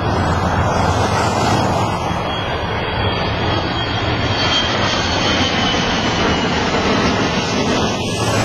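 Small fixed-wing airplane passing overhead on its landing approach, its engine running through a steady wash of wind and road noise, with a faint high whine in the middle.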